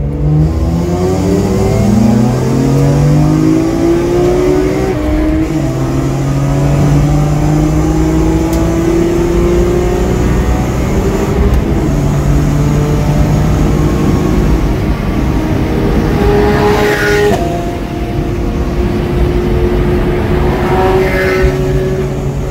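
Car engine heard from inside the cabin, driven hard on track: the revs climb steadily and drop back at gear changes about five, eleven and seventeen seconds in.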